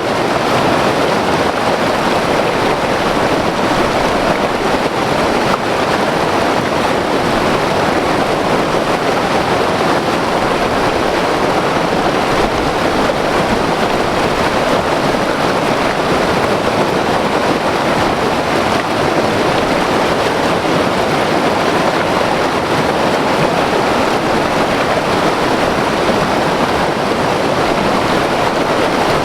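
White-water mountain river rushing over rocks, a loud, steady, unbroken roar of water.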